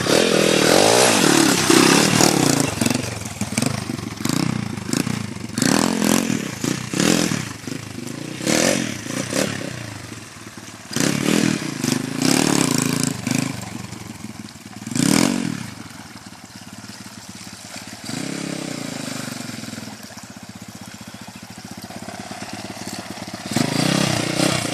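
Pit bike engine revving in repeated surges, its pitch rising and falling with the throttle. It then runs quieter and steadier for several seconds before picking up again near the end.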